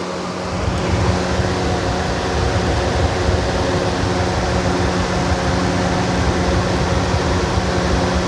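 Lasko B20200 box fan running with a broken blade: a steady motor hum over a low, uneven rumble that builds in the first second. The rumble is the fan shaking, badly out of balance because part of the blade is missing.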